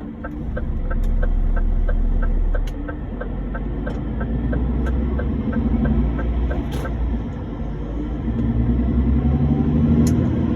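Truck engine and road rumble, heard steadily and swelling at times, with a quick, even ticking in the first half.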